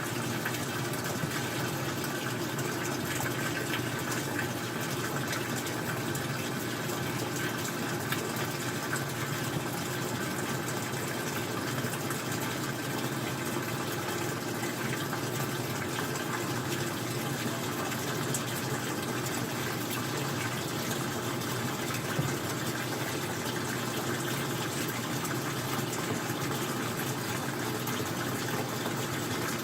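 Old-style front-loading washing machine running a cycle: a steady rush of water with a low hum, even throughout.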